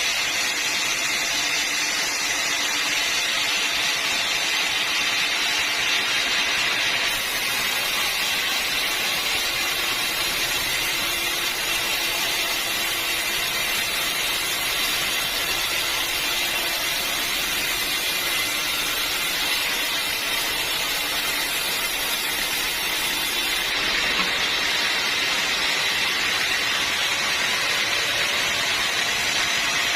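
Sawmill blade running steadily through a hard acacia log, a continuous high-pitched hiss and whine of cutting. The top of the sound changes abruptly twice, about a quarter of the way in and again near the end.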